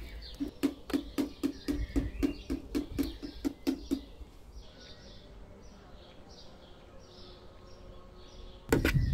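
Small birds chirping over a fast, even run of sharp clicks, about five a second, that stops about four seconds in. Near the end, loud low knocking starts suddenly.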